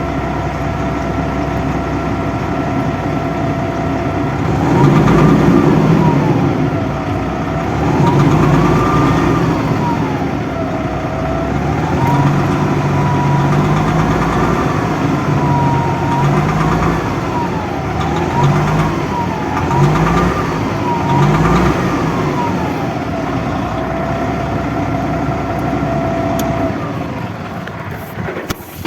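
Dongfeng truck's diesel engine idling, then revved up and down over and over from about five seconds in, dropping back to idle near the end. The engine still has a knock that the owner says has not been fixed.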